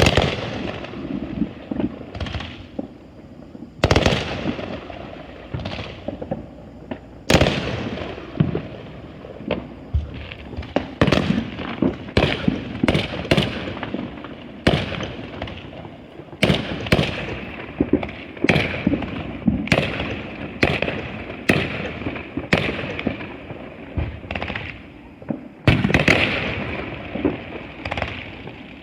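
Fireworks going off in quick, irregular succession: dozens of sharp bangs and crackles, each trailing off in an echo. The biggest bangs come about four seconds in, at about seven seconds, and near the end.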